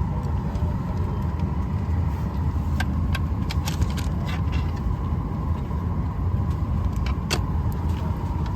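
Steady low drone of an airliner cabin waiting before takeoff, with a faint steady hum over it and a few light clicks.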